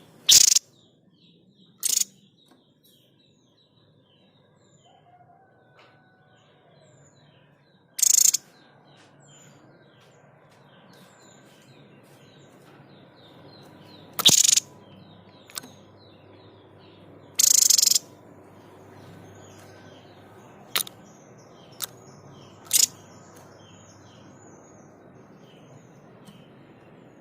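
A babbler known to bird-keepers as the 'sniper bird' (tepus dada putih) giving its sharp, explosive 'shot' calls: short harsh bursts, each well under a second, repeated at irregular intervals about seven times, one a little longer near the middle. Faint twittering of other small birds runs underneath.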